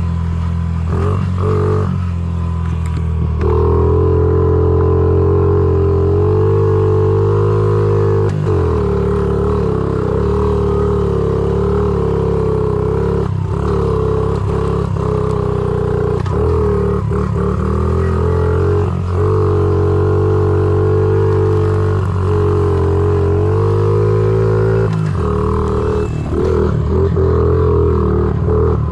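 Honda CRF50 pit bike's small single-cylinder four-stroke engine running under way, its pitch dipping and climbing again several times as the throttle eases off and opens.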